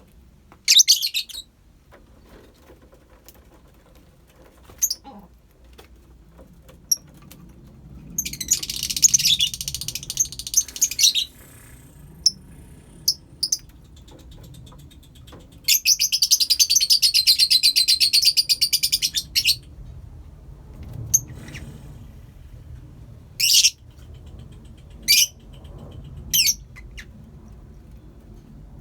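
Colony of lovebirds chirping: short shrill chirps here and there, with two longer runs of rapid, shrill chattering lasting a few seconds each, one about eight seconds in and one about sixteen seconds in.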